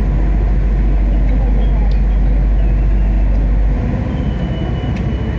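Passenger train running, heard from inside the carriage: a steady low rumble that drops in level about four seconds in.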